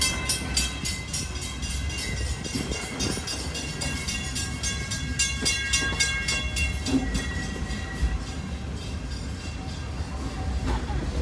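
Walt Disney World Railroad steam train pulling slowly into the station: a rhythmic train of short hissy strokes that spread out and stop about eight seconds in, with steady high tones over them and a low rumble underneath.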